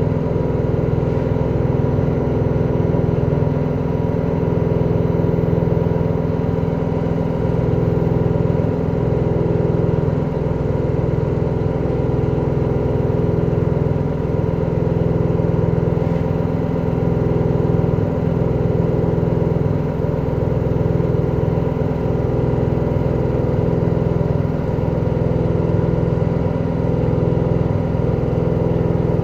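LG direct-drive washing machine spinning at speed with a loud, steady mechanical noise, the extreme noise of its faulty spin cycle.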